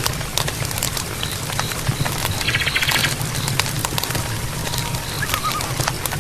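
Night-forest ambience: repeated short high chirps, a brief buzzing trill, scattered sharp clicks and a low steady rumble, with a warbling animal call near the end.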